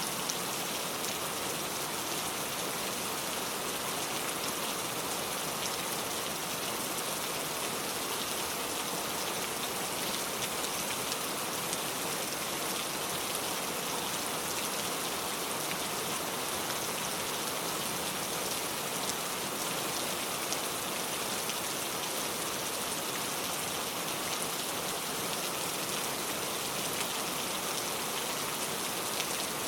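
Steady rain falling on a car, an even patter of many small drops hitting the body and glass.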